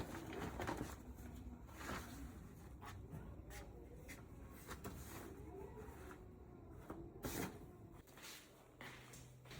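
Scattered knocks and light clatter of household things being moved and handled during room cleaning, with a louder knock about seven seconds in.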